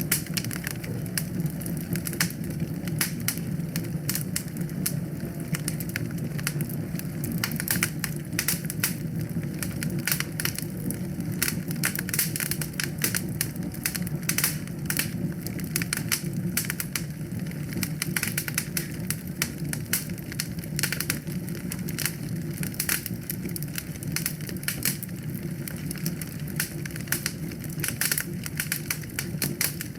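Fireplace fire crackling: dense, irregular snaps and pops over the steady low noise of the flames.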